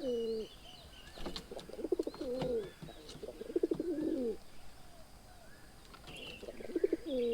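A dove cooing in repeated phrases, each a low rolling coo ending in a falling note, about every two to three seconds. Faint chirps of other small birds are heard between the phrases.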